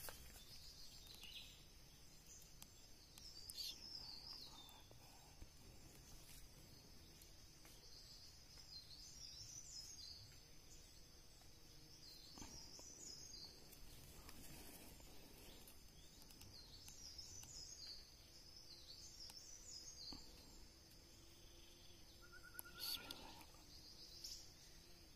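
Faint, high-pitched bird chirps in short scattered clusters, heard over a steady high insect hum.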